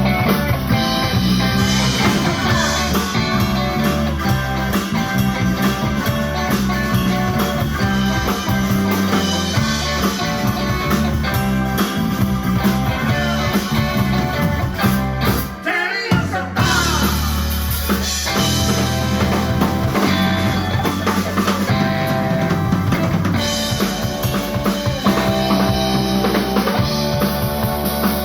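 A live blues-rock band playing, with drum kit, bass and guitar. The drums are prominent, and there is a short break about sixteen seconds in before the band comes back in.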